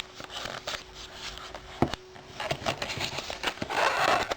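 Earphone packaging being handled and unpacked: rustling and scraping, with a sharp click about two seconds in and a louder rustle near the end.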